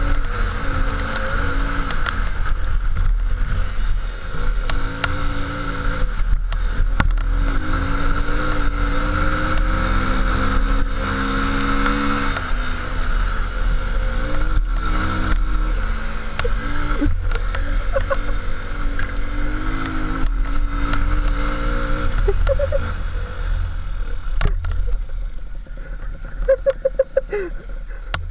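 A vehicle engine running under load, its pitch rising and falling with the revs. It eases off and gets quieter about 22 seconds in.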